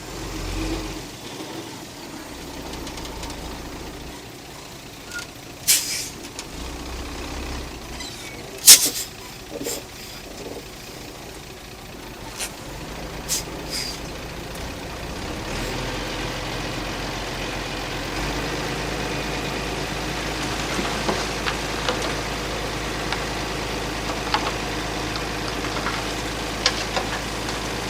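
Diesel engine of heavy earth-moving machinery running, growing louder and fuller about halfway through. Several sharp metallic clanks come over it in the first half, the loudest one a little less than ten seconds in.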